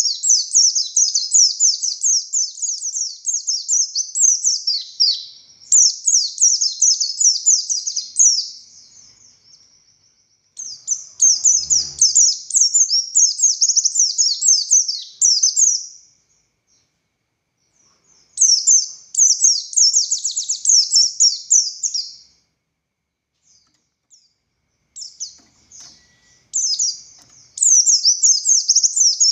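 A white-eye of the buxtoni race (pleci buxtoni) singing in long, fast, high-pitched chattering phrases, several seconds each, with short pauses between. This is the vigorous 'ngalas' song prized by keepers.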